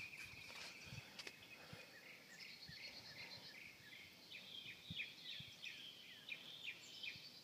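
Faint birds chirping: a run of short, repeated falling notes, about three a second.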